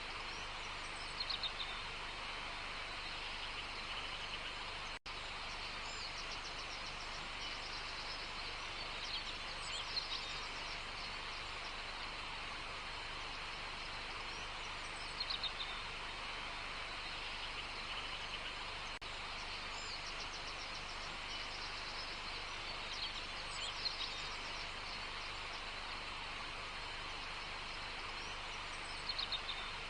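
Outdoor nature ambience: birds calling in short bursts every few seconds over a steady background hiss.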